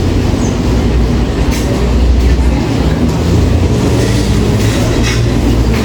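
Background hubbub of a busy clinic waiting area: many indistinct voices blended over a steady low rumble, with a few short clicks or knocks.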